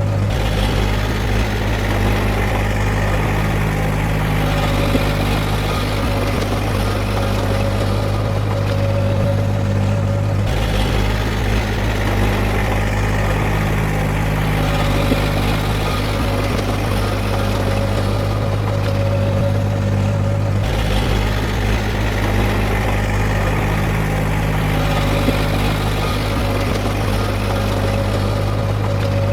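Heavy diesel earthmoving machinery running steadily with a deep engine hum, its sound shifting in a repeating cycle about every ten seconds.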